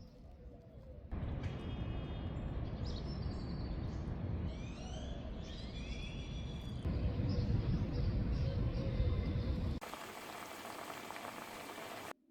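Strong wind rumbling on the microphone, with birds chirping over it. It cuts in abruptly about a second in and changes to a thinner, steady hiss near the end.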